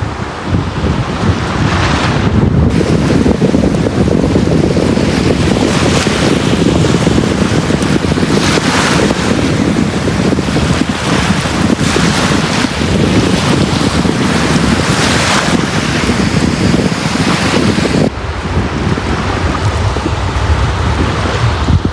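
Sea waves washing onto a beach: a continuous rumbling surf with swells of hiss as each wave breaks. The upper hiss cuts off suddenly near the end.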